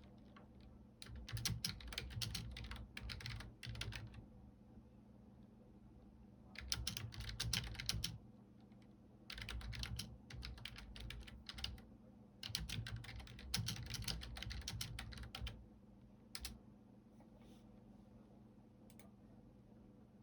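Typing on a computer keyboard: fast runs of key clicks in four bursts of a few seconds each, with short pauses between them, then a couple of lone keystrokes near the end.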